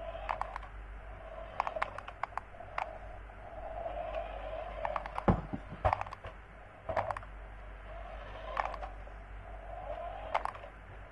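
Irregular light clicks and taps, some in quick clusters of two or three, with a sharper knock about five seconds in and another about a second later.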